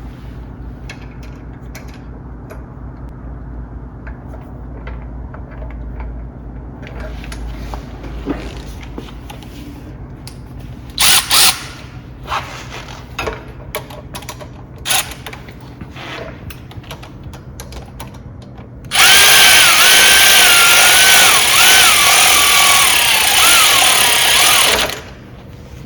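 Power drill driving screws: two short bursts about eleven seconds in, then a longer run of about six seconds near the end with the motor's pitch wavering under load, cutting off suddenly. Light handling clicks and knocks in between.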